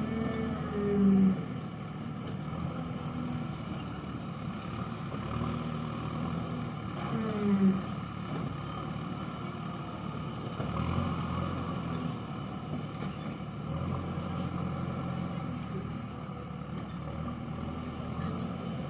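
JCB backhoe loader's diesel engine running steadily, its note swelling now and then as it works. Two short, louder pitched sounds cut in about a second in and about seven and a half seconds in.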